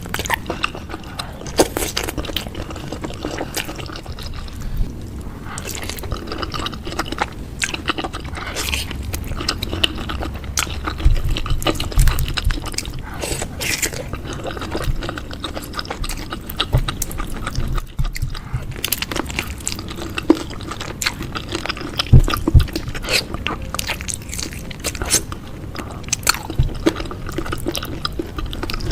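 Close-miked eating sounds: wet chewing and slurping of meatball soup broth, with many sharp clicks and smacks throughout.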